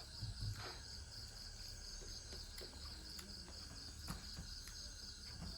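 A cricket chirping steadily in the background, a fast, even pulsing of about five chirps a second, with a few faint clicks.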